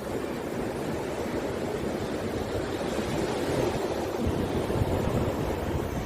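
Rough sea: waves surging and breaking in a continuous wash, with wind buffeting the microphone.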